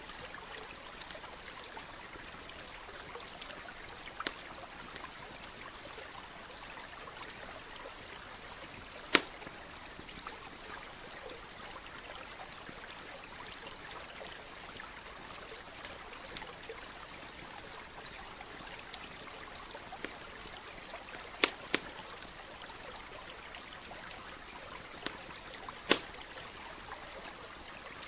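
Campfire crackling over the steady trickle of a nearby stream, with scattered small ticks and a few sharp pops: the loudest about nine seconds in, two close together past the twenty-second mark and another near the end.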